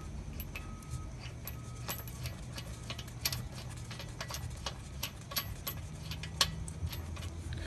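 Irregular light metallic clinks and rattles of a loose steel wheel nut being handled and fitted to the wheel stud, over a low steady hum.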